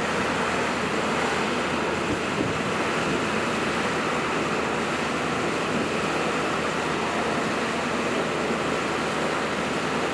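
Steady running of the Ford F550 bucket truck's engine with the PTO engaged, driving the hydraulic pump while the Elliott aerial boom is operated; an even, unbroken rushing noise with no distinct events.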